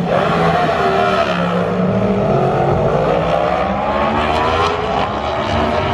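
Superbike engines at full throttle in a drag race. The engine note dips in pitch, then climbs, then drops about four and a half seconds in and climbs again.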